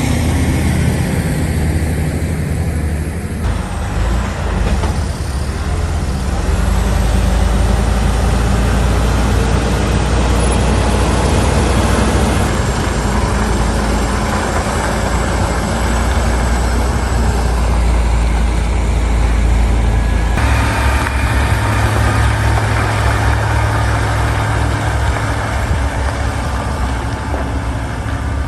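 Heavy diesel engines of large machinery running, a loud steady low rumble. The sound changes abruptly about three and a half seconds in and again about twenty seconds in.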